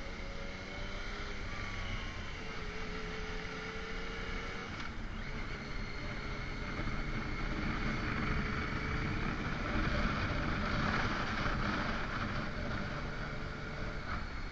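Motorcycle engine running steadily while riding, with a rush of wind and road noise that grows louder about ten seconds in.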